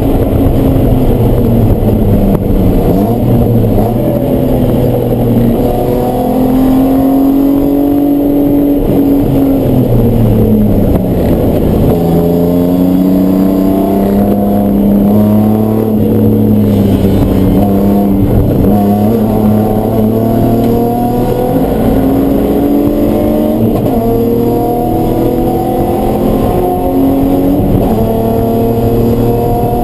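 Race car engine running hard on track, its revs falling and rising in long sweeps. Near the middle the revs settle into a steadier, slowly climbing pitch, with a few brief dips.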